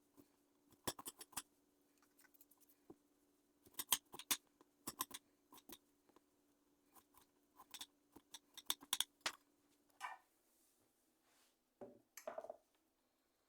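Fresh root ginger being peeled: short, irregular scraping strokes in clusters, then a couple of duller knocks near the end.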